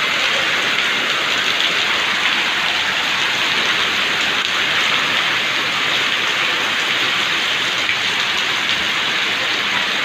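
Heavy rain pouring down steadily in a windstorm, a dense even hiss with no letup.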